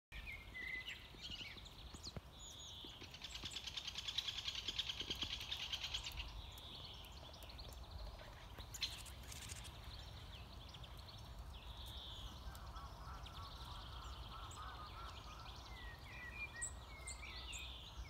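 Several songbirds singing and calling, loudest in a fast trill of rapidly repeated high notes from about two and a half to six seconds in, over a low steady rumble.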